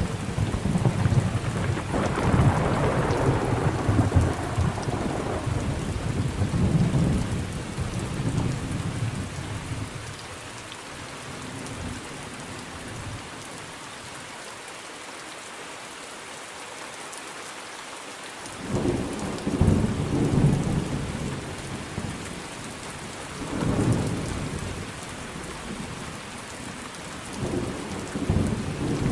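Thunderstorm: steady rain with rolling thunder, a long rumble through the first ten seconds, then rain alone for several seconds until three more shorter rumbles about two thirds of the way through and near the end.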